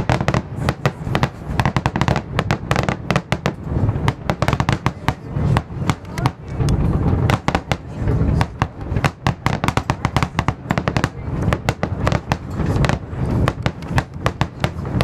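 Aerial fireworks shells bursting in a dense barrage, several sharp bangs a second with no pause, over a deep continuous rumble.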